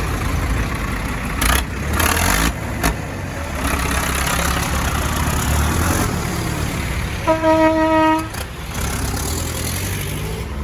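Tractor engines running with a steady low rumble, and a vehicle horn sounded once for about a second, about seven seconds in.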